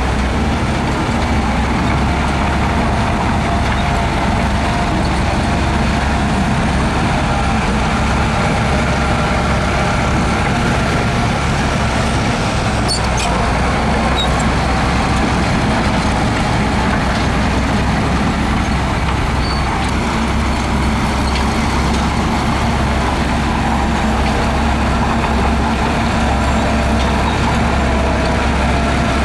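Heavy diesel construction machinery running steadily under load, with a low engine drone and a few brief high clicks about halfway through.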